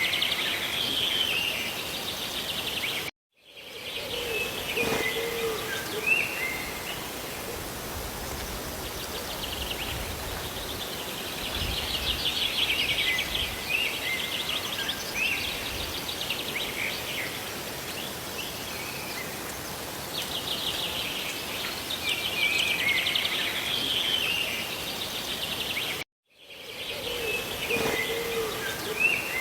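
Steady rush of rain and falling water with small birds chirping in recurring bursts over it. The sound cuts out abruptly for a moment twice, about three seconds in and near the end.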